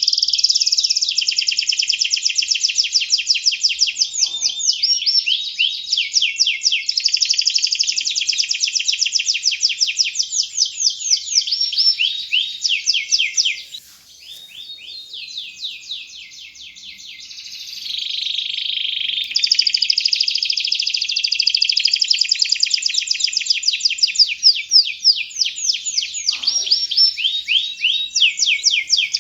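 Domestic canary in full song: long runs of rapid trills and rolls, each made of many quick repeated notes. About halfway through the song drops to a softer, sparser passage, then comes back at full strength.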